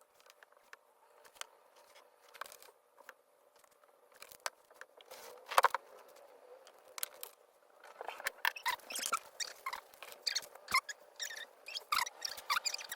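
Scratchy, squeaky strokes of a painting tool on a paper or canvas surface. At first there are only scattered taps and scrapes. About eight seconds in they become a quick, busy run of short squeaking strokes.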